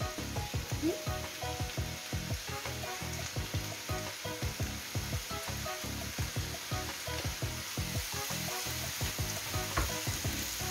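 Rice and vegetables sizzling in oil in a frying pan, with many small clicks and taps as peas, diced red pepper and seafood pieces are tipped in from a plate. A wooden spoon starts stirring near the end.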